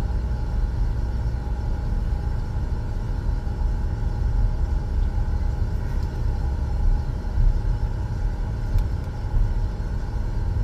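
Steady low rumble of a car driving, heard from inside the cabin: engine and road noise at a constant cruise.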